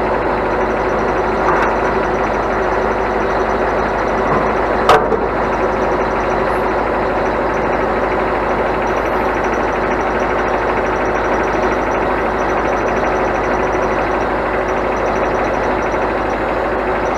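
Scania loader-crane truck running steadily, its engine driving the crane's hydraulics, with a steady whine through the drone. One sharp knock about five seconds in.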